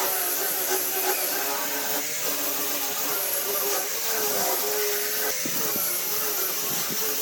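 An electric power tool running steadily with a lot of hiss, its motor pitch dipping and recovering as it is worked, with a few brief knocks about five to six seconds in.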